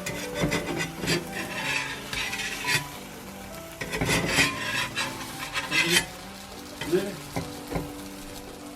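A utensil stirring and scraping food in cookware, in two spells of quick scratchy strokes, with a few lighter knocks near the end.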